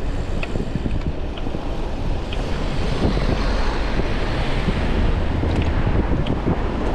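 Wind buffeting a chest-mounted GoPro's microphone while riding a bicycle: a steady low rumbling rush, with a few faint short ticks over it.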